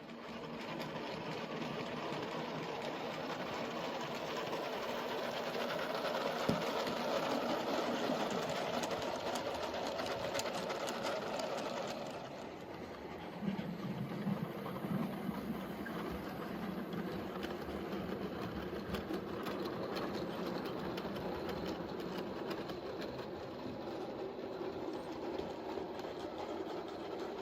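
N gauge model train running on the track: a small locomotive's electric motor running with the wheels rattling along the rails, the sound changing about halfway through.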